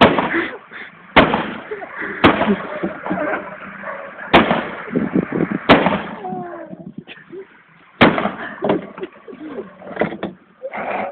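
An axe striking the sheet-metal roof of a Renault 19 car, about six heavy blows at uneven intervals, each a sharp bang.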